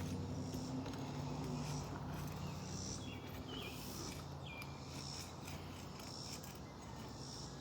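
Birds chirping now and then in short calls, over a low steady hum that fades out about halfway through.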